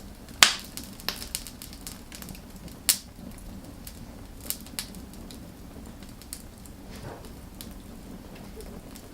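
Wood fire crackling: irregular sharp pops and snaps, the loudest about half a second in and another near three seconds, over a low steady hiss of the burning.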